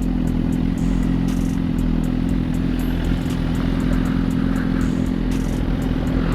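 Suzuki GSX-R1000 sport bike's inline-four engine running at a steady speed, its pitch holding level, under a rush of road noise.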